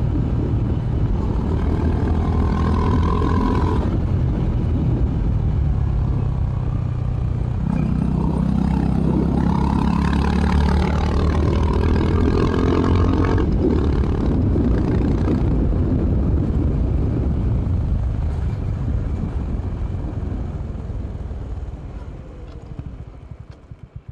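Honda CB350 RS's single-cylinder engine running under way through its stock exhaust, its pitch shifting with throttle and gears. Over the last few seconds it gets quieter as the revs drop off.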